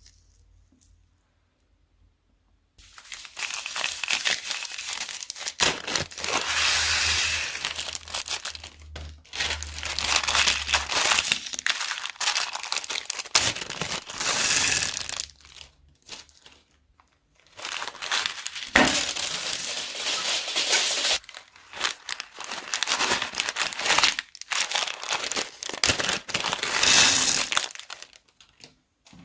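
Plastic bags crinkling and crackling as they are squeezed and handled, in long busy bursts with a short pause about halfway through. The first few seconds are nearly quiet.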